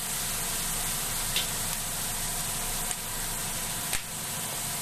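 Fried rice sizzling steadily in a wok on a high flame, just after soy sauce and vinegar have gone in. A few short clicks of the spatula against the wok, the loudest about four seconds in.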